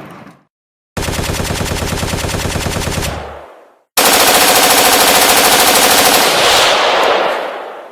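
Automatic gunfire sound effects: a burst of rapid fire starts about a second in, runs about two seconds and dies away, then after a brief silence a second, louder burst starts about four seconds in and runs about three seconds before fading.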